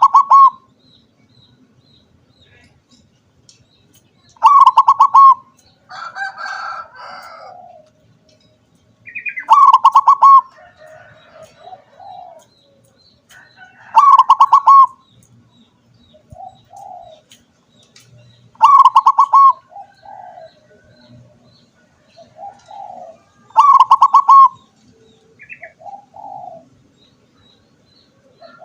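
Zebra dove (perkutut) singing: a loud, rapidly trilled cooing phrase repeated about every five seconds, with softer coos in between.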